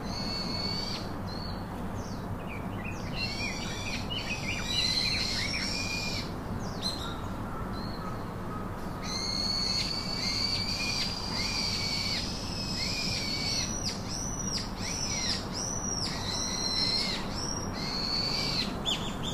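Bird calls: high, whistled notes repeated in bouts, some of them rising and falling in quick arcs, over a steady low background rush.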